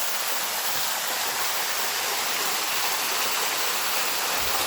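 Waterfall splashing down into a creek, a steady rushing of falling water close by, the falls running high.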